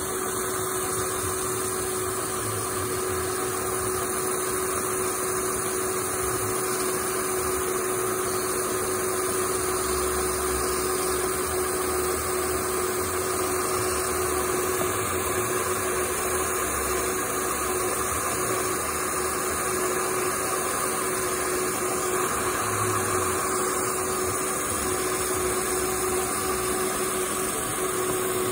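Saturn Vue's 3.5 L V6 engine running, heard up close at its belt-driven A/C compressor and alternator: a steady, even mechanical running noise with one constant whine over it.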